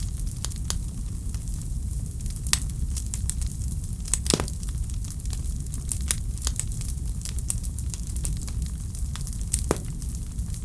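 Fireplace fire crackling, with frequent small irregular pops and two louder snaps, about four seconds in and near the end, over a steady low rumble.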